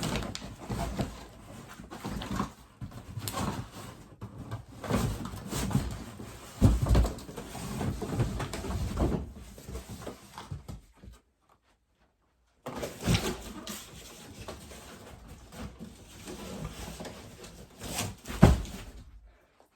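A cardboard shipping box being tipped and an electric scooter being pulled out of it: rustling and scraping cardboard with scattered thumps, including a loud knock about seven seconds in and another near the end. The sound cuts out completely for about a second and a half just past the middle.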